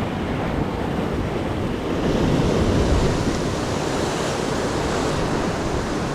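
Ocean surf washing on the shoreline, with wind on the microphone; a wave surges louder about two seconds in and eases off near the end.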